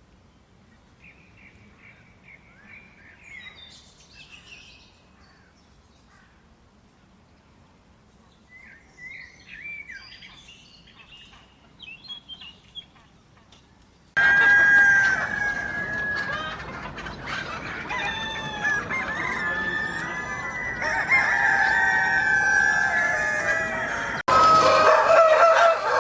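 Faint chirping of small birds, then, after an abrupt cut about halfway through, chickens: several roosters crowing over each other with hens clucking, loud and overlapping. Another sudden cut comes near the end, into more crowing.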